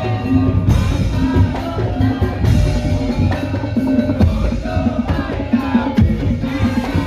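Madurese tong-tong (ul daul) percussion music played loud: drums and wooden percussion in a driving rhythm over heavy bass, with a short melody line on top.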